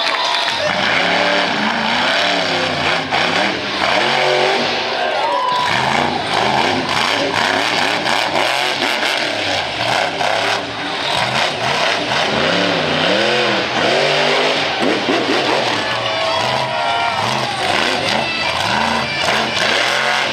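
Monster truck engine revving hard, its pitch climbing and dropping again and again in quick surges.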